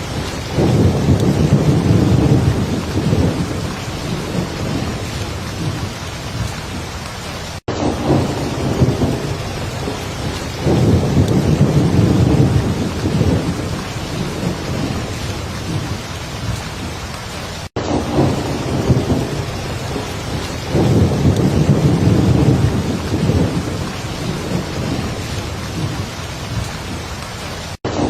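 Heavy rain falling steadily, with low thunder rumbling up three times, about every ten seconds. The sound cuts out for an instant just before each rumble, where the recording loops.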